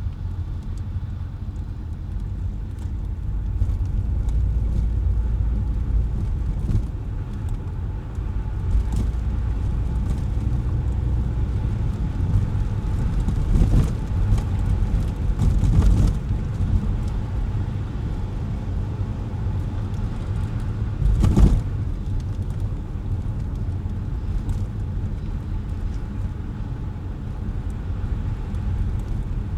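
A car driving on wet, slushy city streets: a steady low rumble of engine and tyres, broken by a few sudden knocks as it goes over bumps, the loudest about two-thirds of the way through.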